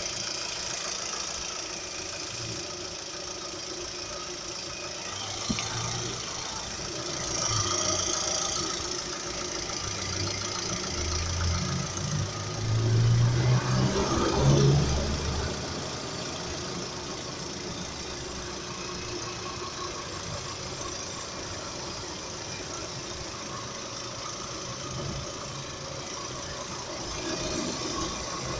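Lada Vesta engine idling at operating temperature with a knock that the owner hears only when it is hot. The revs rise briefly about halfway through, then settle back to idle.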